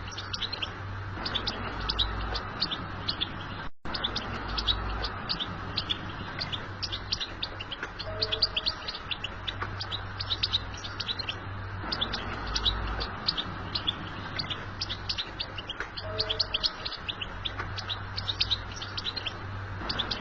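European goldfinch singing a rapid, continuous twittering song of quick chirps and trills, the kind of recording played to excite caged goldfinches into song. A steady low hum runs underneath, with a brief break in the audio about four seconds in.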